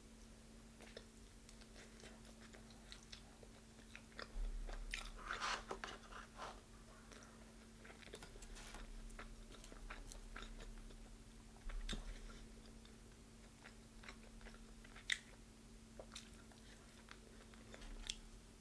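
Faint crunching bites and chewing of crispy deep-fried chicken, with a busier run of crackly crunches about five seconds in.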